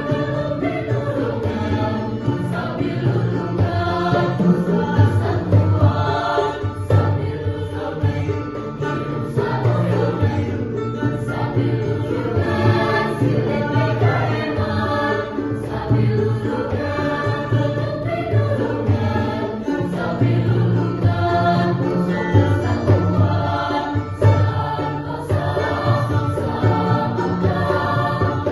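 A school choir sings a Sundanese kawih in harmonised voice parts, with sustained low notes under the melody.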